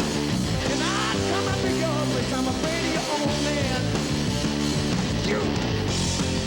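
A hard-rock band playing live: distorted electric guitar with gliding, bending notes over bass and drums.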